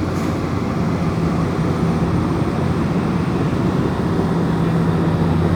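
Komatsu bulldozer's diesel engine running steadily at an even pitch.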